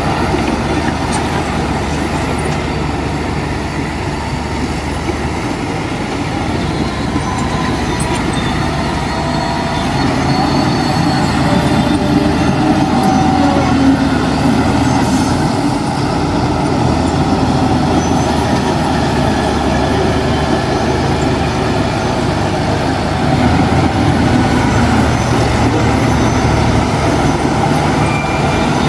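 Diesel engine of heavy earthmoving machinery, a bulldozer or dump truck, running steadily. It works harder and gets louder about ten seconds in and again near the end.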